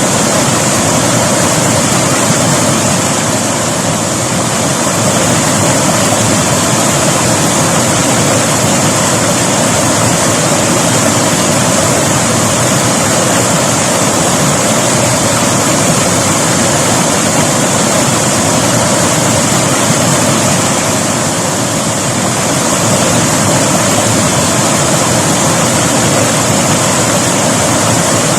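River water flowing in a steady, continuous rush, easing slightly twice.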